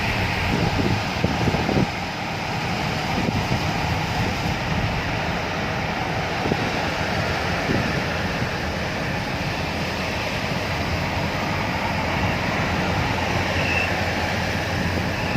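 A vehicle in the rain: a steady rushing of tyres on a wet road and falling rain, with faint voices early on.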